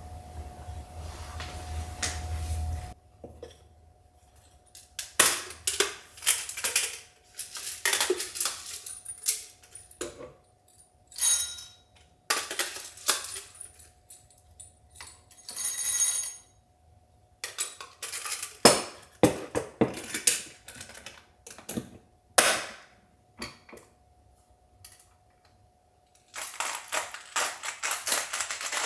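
Irregular clinks and clatters of small hard objects being handled, coming in short clusters with quiet gaps between them.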